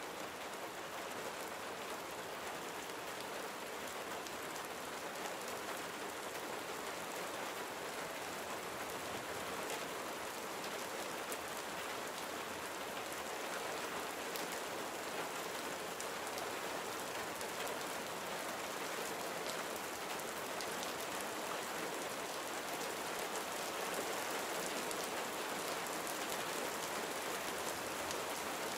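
Steady, gentle rain falling and pattering on surfaces, with scattered individual drops ticking.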